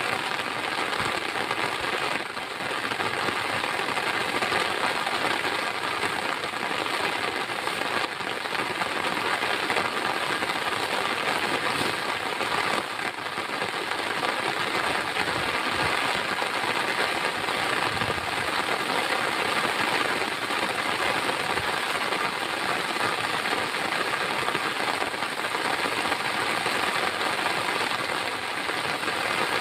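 Heavy rain: a steady, dense hiss of many raindrops striking a surface, with no letup.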